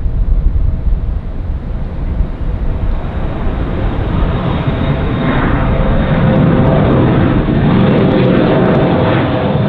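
Jet airliner passing close, a low rumble at first, then its engine noise building from about four seconds in, with a steady whine and a sweeping, phasing sound as it goes by.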